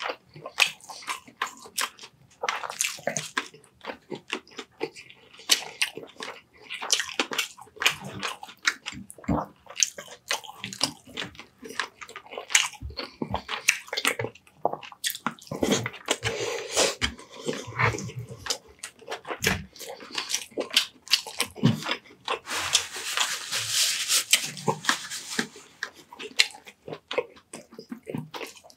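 A person eating fish and rice close to the microphone: wet chewing and lip smacking, with many quick, irregular clicks.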